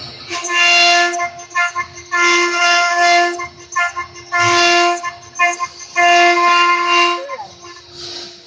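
A multi-head CNC router's motors whining with a steady pitched tone that starts and stops in one-second runs about every two seconds as the machine moves, with a brief pitch glide near the end.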